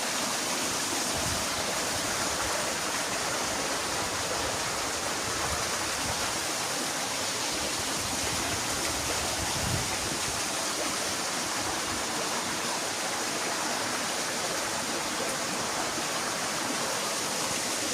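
Running water rushing steadily, an even hiss without a break.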